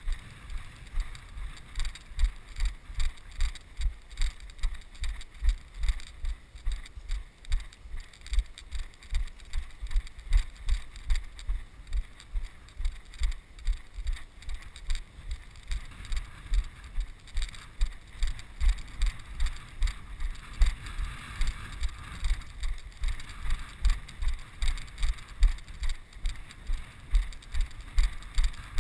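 Walking footsteps heard as steady low thuds, a little over two a second, carried through a body-worn camera, with wind noise on the microphone.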